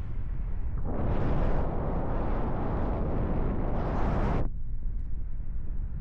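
Wind buffeting the microphone of a paraglider in flight, a steady low rumble. From about one second to four and a half seconds in, a loud rushing hiss rises over it and then cuts off abruptly.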